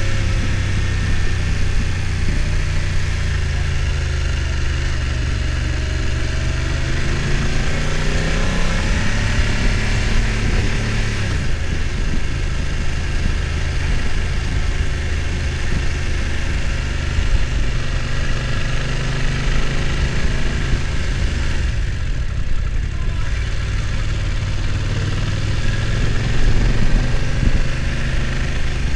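BMW F900 XR's parallel-twin engine running at low revs, its pitch rising and falling with the throttle and climbing most clearly about seven to ten seconds in.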